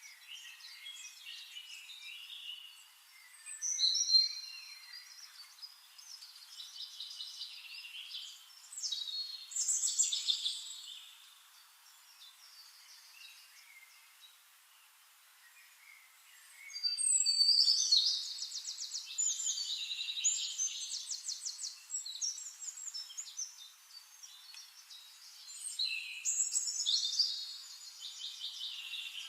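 Songbirds singing: a run of chirps and warbling phrases, broken by several loud bursts of rapid trilling, the longest lasting a few seconds past the middle. The sound is thin, with no low end at all.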